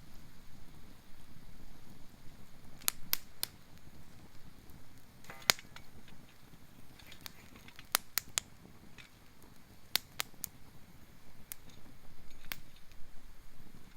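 Campfire of gathered fallen wood burning, with irregular sharp pops and crackles, about fifteen of them, over a low steady hiss.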